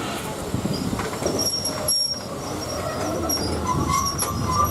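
Passenger coaches of a steam train hauled by LSWR T9 class no 30120 running on the rails, with thin, high wheel squeals and a few sharp clicks over a steady rumble.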